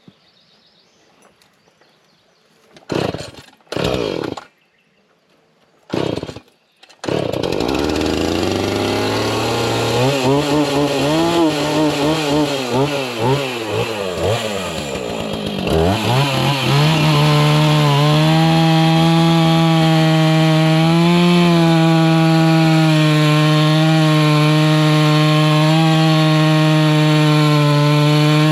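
Chainsaw pull-started with a few short cranks, catching about seven seconds in. It revs up and down unevenly at first, then runs steadily at high speed from about seventeen seconds on.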